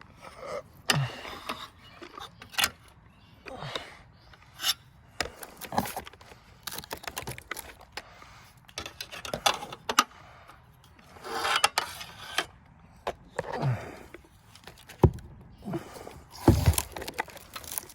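Rotted wood being pried and broken out with a crowbar and flathead: irregular cracks, splintering and scraping as the soft, crumbling wood gives way.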